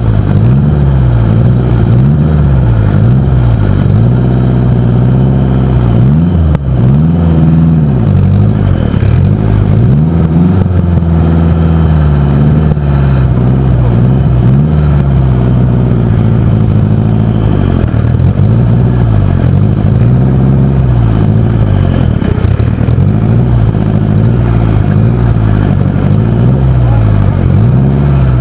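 Pulling tractor engine running loud, its pitch swinging up and down every second or two as the engine speed rises and falls.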